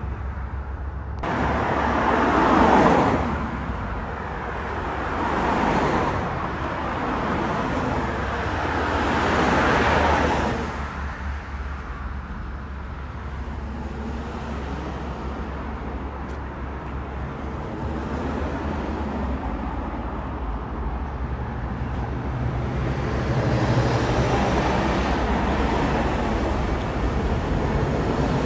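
Road traffic: several vehicles pass close by one after another in the first ten seconds, each rising and falling away, followed by a steadier rumble of traffic.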